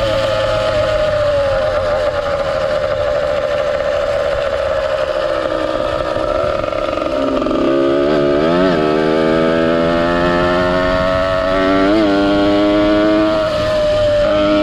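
Ported 100cc two-stroke motorized-bicycle engine with a YZ85 expansion pipe, running at high revs under way. About halfway the revs drop, with two quick throttle blips, then climb back up near the end.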